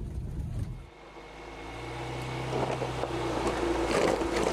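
1994 Geo Tracker's four-cylinder engine running as it crawls over a rocky desert trail. The sound drops suddenly about a second in, then a steady engine hum builds, with a few sharp knocks near the end.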